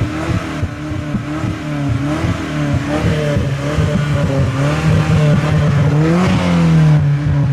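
Nissan 240SX's KA24E four-cylinder engine running just after a Seafoam treatment through a vacuum line, its revs wavering unevenly, then climbing briefly about six seconds in and easing back down.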